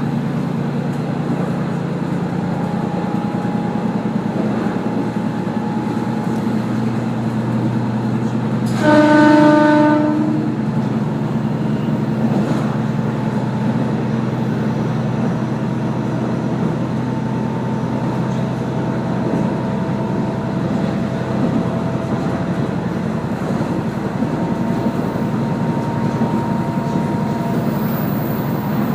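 Diesel railcar of the Sendai Kazekko joyful train running along the line with a steady low engine and rail hum. About nine seconds in, a train horn gives one blast lasting about a second and a half.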